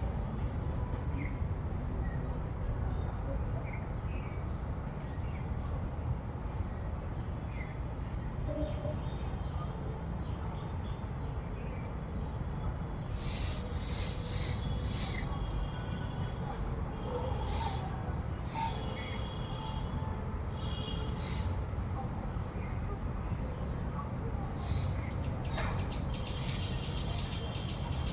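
Steady, high-pitched insect chorus droning without a break, with short bird chirps coming in from about halfway through, over a low rumble.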